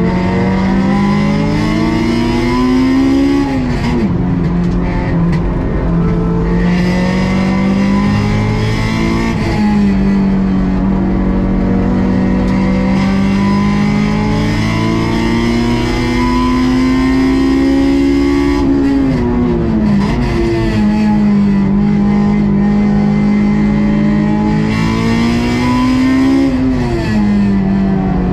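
Honda S2000 (AP2) stock 2.2-litre four-cylinder engine driven hard on a race track. Its pitch climbs under load and then falls sharply at gear changes and braking, several times over.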